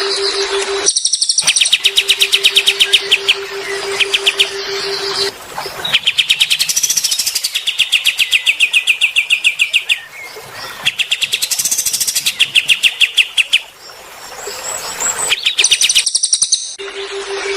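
Songbird singing phrases of fast, rapidly repeated trilled notes, each phrase a few seconds long with short breaks between. A steady low hum runs under the song at the start and again near the end.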